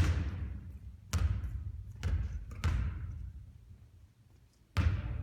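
A basketball bouncing on a court floor: five loud thuds at uneven intervals, each trailing off briefly.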